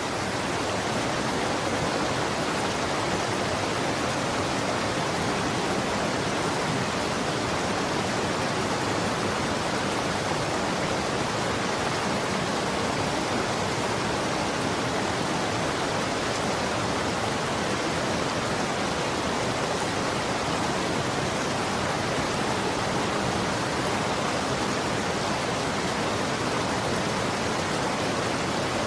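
Running water rushing steadily, an even hiss with no separate splashes or drips.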